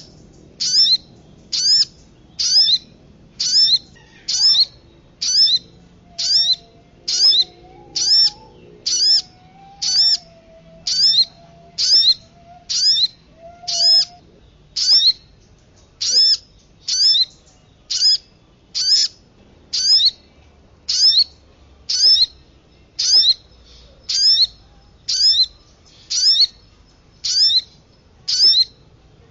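Bird-lure recording of sogon and kemade calls: a short, high chirp repeated evenly a little more than once a second, with a fainter, lower wavering whistle from about six to fourteen seconds in.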